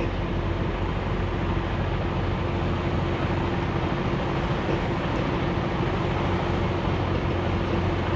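Steady running noise of a semi truck on the road: a low engine drone under even road noise, with a faint constant tone.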